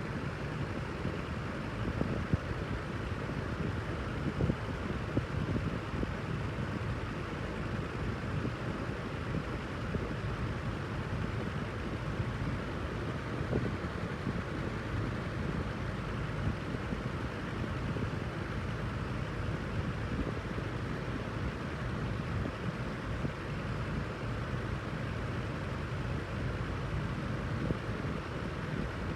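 Wind-machine fan running steadily, a constant rush of air with low buffeting as the airflow hits the microphone.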